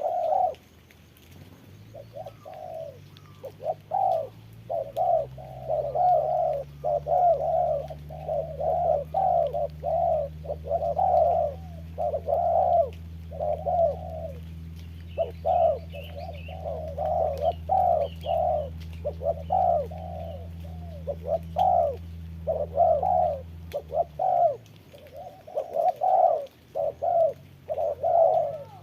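Spotted doves cooing over and over in short, closely repeated phrases. A steady low hum runs underneath from about two seconds in and stops a few seconds before the end.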